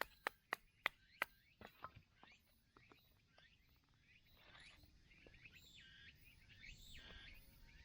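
Quiet outdoor ambience. A quick run of sharp clicks or snaps comes in the first second and a half, then a bird calls several times in the second half.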